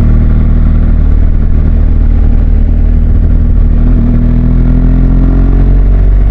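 BMW R1200GS Adventure's flat-twin engine running steadily on the move, its pitch rising slightly about two-thirds of the way through and then easing off.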